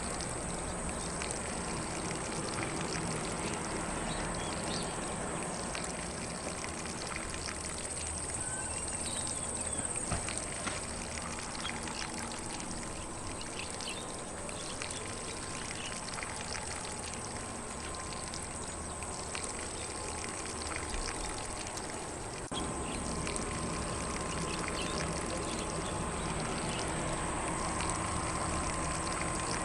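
Lawn sprinkler spraying water across grass: a steady hiss of falling spray that runs on without a break, stepping up slightly in level a little over twenty seconds in.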